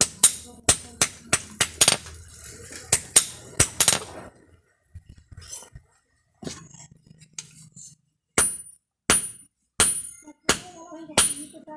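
Hand hammer striking a steel saw blade on an anvil, sharp ringing blows. A quick irregular run of about two to three blows a second comes first, then a pause of about four seconds, then steadier blows about every two-thirds of a second.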